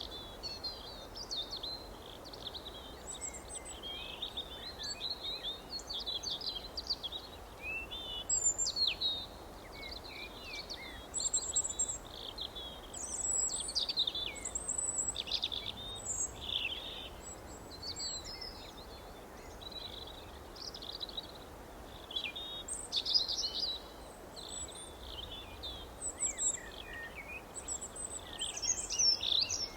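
Several small songbirds chirping and trilling continuously, many short high notes overlapping, over a faint steady background hiss.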